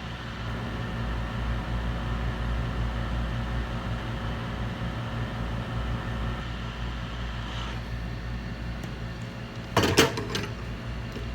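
Steady electric hum of a workbench fan or blower with a low mains buzz. Near the end, a couple of sharp knocks stand out as the loudest sounds.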